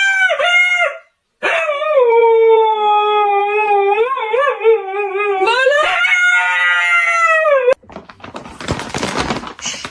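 Dog howling: a short howl breaking off about a second in, then one long wavering howl that dips in pitch and rises again before cutting off. A rough, scraping noise follows near the end.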